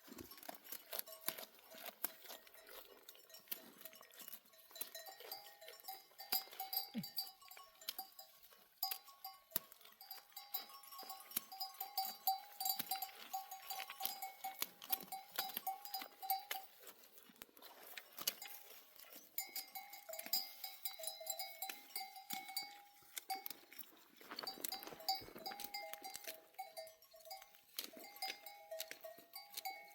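Bells on a grazing flock of sheep clinking and ringing irregularly as the animals move.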